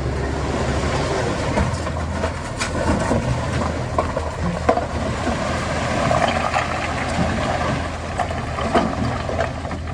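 Heavy construction machinery's diesel engine running steadily at a low pitch, with scattered metallic knocks and clanks.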